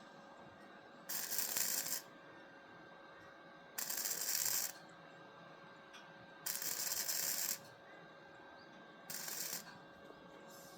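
Four bursts of hissing, each about a second long and a few seconds apart; the last is shorter and fainter.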